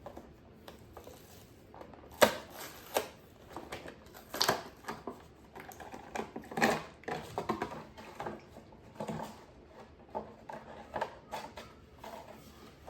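Toy packaging being handled and pulled open by hand: irregular crinkles, clicks and crackles, the loudest about two seconds in.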